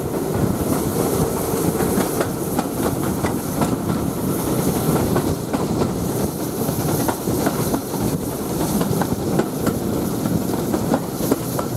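Steam-hauled passenger train running along the line, heard from an open carriage window: a steady rumble of carriage wheels on the track with irregular clicks over rail joints.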